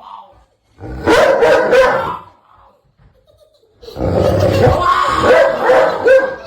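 A dog vocalizing loudly in two stretches, one about a second in and a longer one from about four seconds in.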